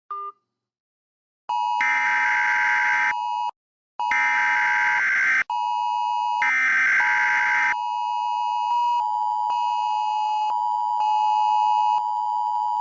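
Emergency Alert System broadcast signal: three harsh electronic data bursts, each about a second long, then a steady, sustained two-tone attention signal from about nine seconds in. The signal heralds an emergency alert, here a tornado warning.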